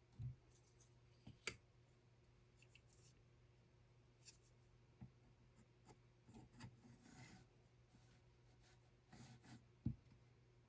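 Faint handling sounds in a small room: scattered light clicks and short rubbing rustles, with a sharp click about a second and a half in and a soft knock near the end, over a low steady hum.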